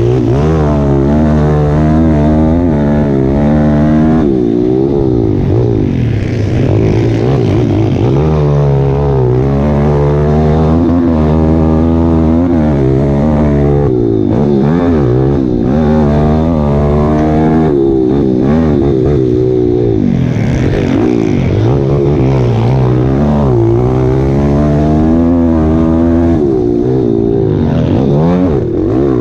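Pit bike engine revving hard under riding, its pitch repeatedly climbing and then dropping every few seconds as the rider accelerates, shifts and backs off.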